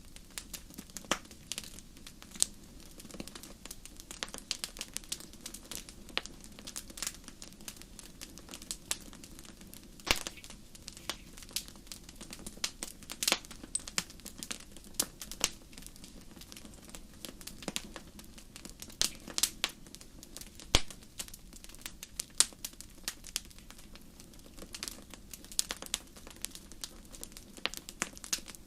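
Wood fire crackling: irregular sharp pops and snaps, several of them louder, over a low steady rumble.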